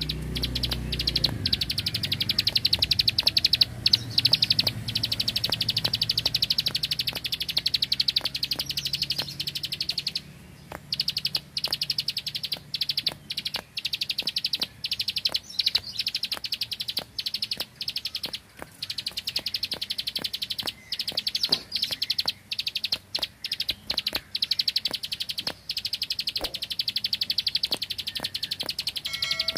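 Prinia (prenjak) calling in a fast, continuous run of dry, high clicks, the rattling 'bren' burst that gives it the name 'klik klik'. The run pauses briefly about ten seconds in.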